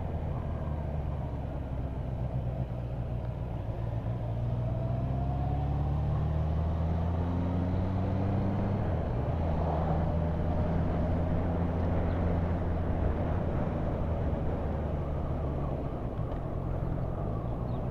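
A motorcycle engine running under way, with road and wind rumble. Its pitch climbs for several seconds, drops about nine seconds in, then holds steady.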